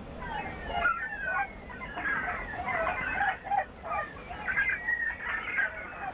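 Domestic chickens clucking and calling, with many short calls overlapping throughout.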